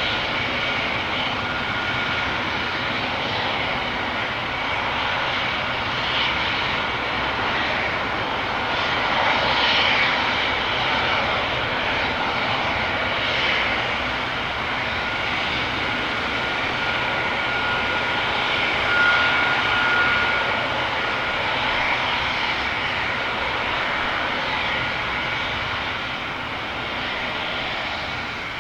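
AgustaWestland AW139 helicopter running, its two Pratt & Whitney Canada PT6C turboshaft engines whining over the steady noise of the five-bladed rotor. The sound swells slightly about ten seconds in and again near twenty seconds.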